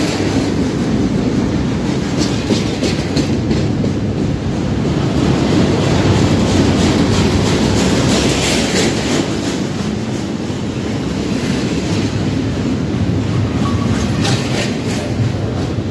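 Double-stack intermodal freight train rolling past close by: a loud, steady rumble of steel wheels on rail, with clusters of clicking and clatter as the well cars' wheels pass.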